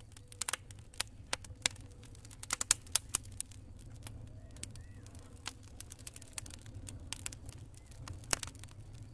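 Campfire burning, wood crackling with irregular sharp pops, thickest a few seconds in and again near the end, over a low steady rumble.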